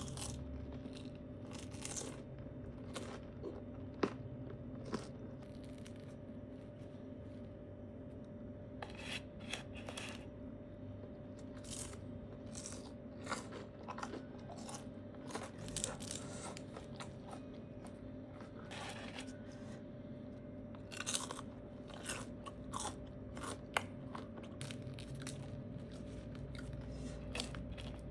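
Someone biting and chewing crunchy basreng, the Indonesian fried meatball chips, with irregular crisp crunches, over a steady low background hum.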